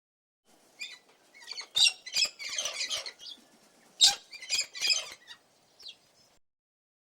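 Irregular clusters of short, high, scratchy chirps and squeaks from an animal, starting about a second in and stopping a little after six seconds.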